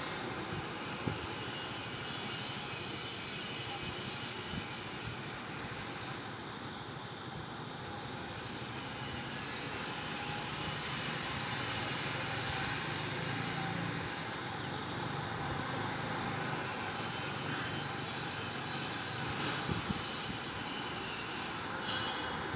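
Steady city background rumble heard from an apartment, swelling slowly in the middle and easing off again, with a few faint knocks.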